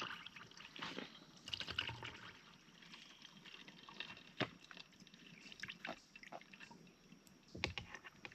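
A dull kitchen knife slicing a tomato on a cutting board: wet, squishy cuts and a few light taps of the blade on the board, with the blade tearing the tomato rather than cutting it cleanly.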